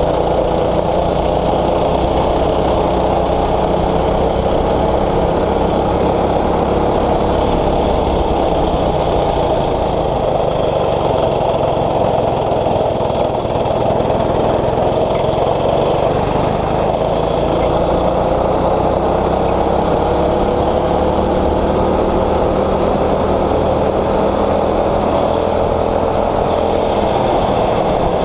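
6.5 hp single-cylinder four-stroke kart engine running under throttle, its pitch sagging and climbing slowly with speed and dropping off near the end.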